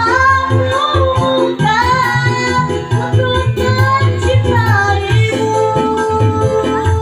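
A child singing a slow, melismatic melody over electronic keyboard accompaniment with a steady beat. The voice drops out about five seconds in, leaving the keyboard playing a held tone.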